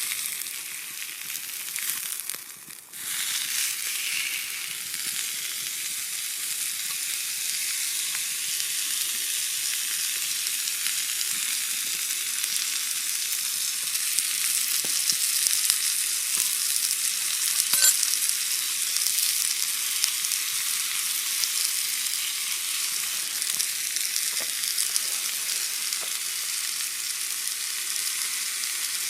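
Steak sizzling steadily on a thick iron griddle over a campfire. The sizzle drops away briefly about three seconds in, then comes back and carries on, with a few small pops.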